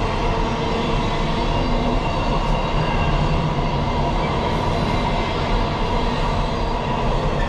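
Passing train: the steady, unbroken rumble of wheels on the rails.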